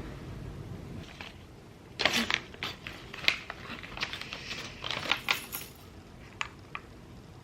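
Small hard plastic parts clicking and rattling in a cluster, then a few single ticks near the end, as keyboard stabilizer housings are handled and assembled.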